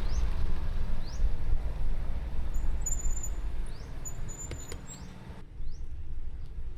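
Outdoor wind rumbling on the microphone, with short rising chirps every second or so; the higher sounds drop away abruptly near the end.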